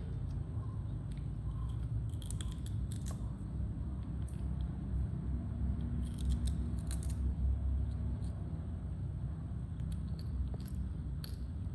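Monkeys biting and chewing crunchy raw vegetables: short crisp crunches in clusters, about two, six and eleven seconds in, over a steady low rumble.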